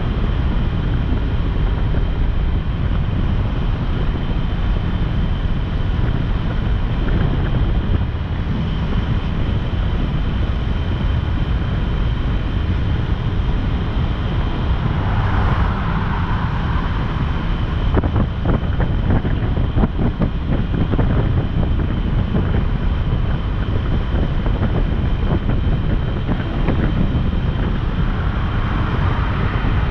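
Wind buffeting the microphone on a moving motorcycle, a steady low rumble with the bike's engine and road noise under it. It swells briefly in the middle and again near the end, and a few light knocks come about two-thirds of the way through.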